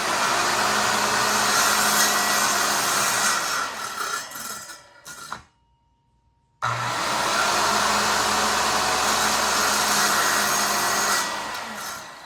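RIDGID circular saw running and cutting through a wooden barn door, in two runs of about five seconds each with a second of silence between; each run starts abruptly and trails off as the blade winds down.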